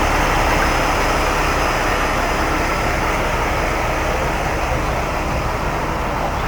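Steady, loud engine noise from heavy vehicles running outdoors, easing off slightly toward the end.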